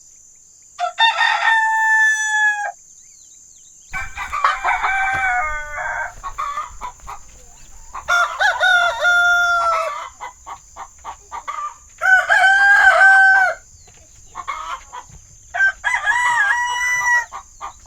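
A rooster crows about five times, each crow a long drawn-out call, with short clucks between the crows.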